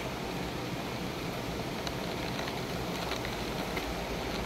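Steady hiss of heavy rain during a thunderstorm, with a few faint ticks.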